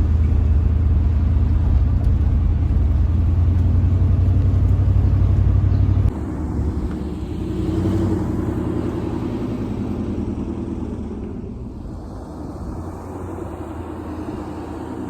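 A car on the move: a steady low engine and road drone. About six seconds in it cuts off abruptly and gives way to a quieter, lower vehicle noise.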